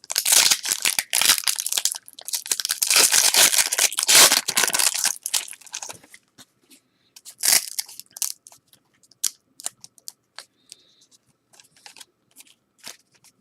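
A trading-card pack wrapper being torn open and crinkled for about six seconds, then a brief rustle and scattered light clicks as the cards are handled.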